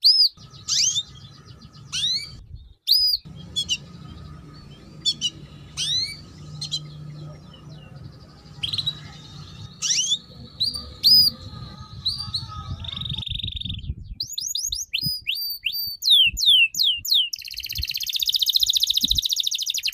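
Songbird singing sharp, high whistled notes that sweep up and down, one at a time with short pauses between. About two-thirds of the way in it breaks into quick runs of repeated notes, ending in a fast, continuous trill.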